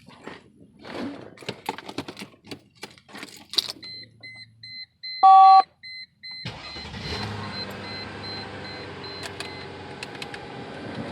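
Clicks and knocks, then a run of quick electronic beeps and a short, louder tone from the car's dash, before the 2000 Mercedes-Benz E430's 4.3-litre V8 starts about six seconds in and settles into a steady idle.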